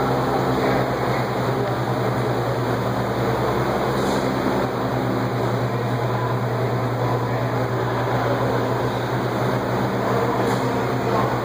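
Steady room noise of a large indoor exhibition hall: a constant low hum under an even haze of background noise.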